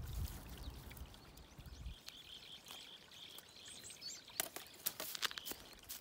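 Faint outdoor ambience with a bird calling in the distance, a thin high call held for about three seconds. Near the end come a few light clicks and rustles as the green onions in the bamboo basket are handled.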